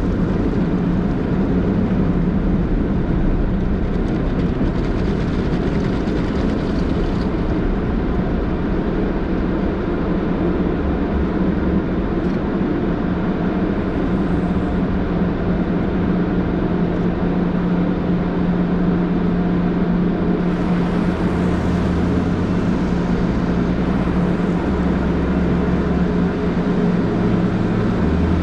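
Automatic tunnel car wash running, heard from inside the car's cabin: a loud, steady rumble with a constant low drone, the sound getting a little brighter and throbbing more about two-thirds of the way through.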